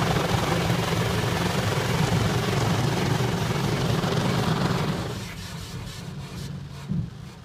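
Automatic car wash machinery running with a loud, steady whooshing rumble, which dies down about five seconds in.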